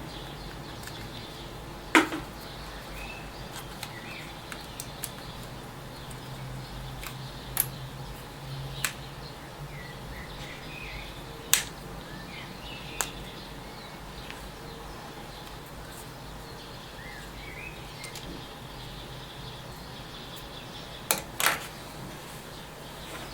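Scattered sharp clicks and taps of small tools and plastic parts as a Samsung Galaxy S3 smartphone is disassembled: the loudest about two seconds in, a close pair near the end. Faint bird chirps and a steady low hum lie under them.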